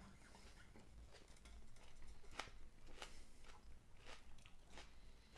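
A person chewing a piece of raw onion with faint, crisp crunches, about one or two a second.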